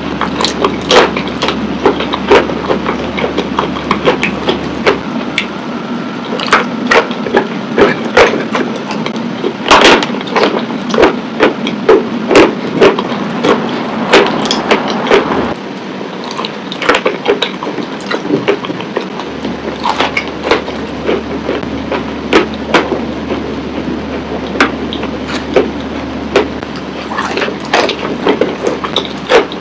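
Wet chalk pieces in clay paste being bitten and chewed: irregular wet crunches, often several a second, over a steady low hum.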